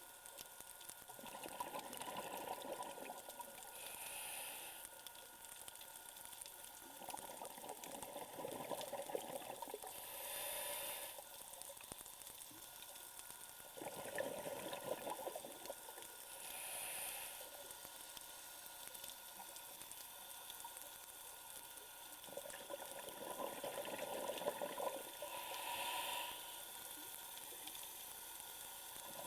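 Scuba diver breathing underwater through a regulator: a short hiss on each inhale, then a longer burst of exhaled bubbles, repeating about every six to seven seconds.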